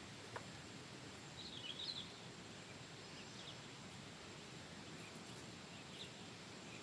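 Faint outdoor ambience: a steady hiss with a short twittering bird call about a second and a half in and a couple of brief, fainter chirps later. A small click sounds near the start.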